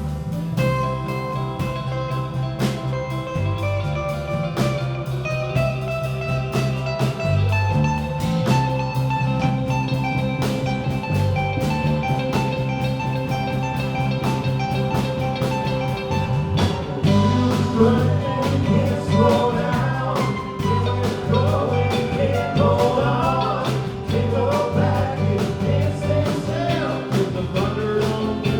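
Live band playing a blues-rock song with electric guitar, bass and drums; about halfway through a singing voice comes in over the instruments.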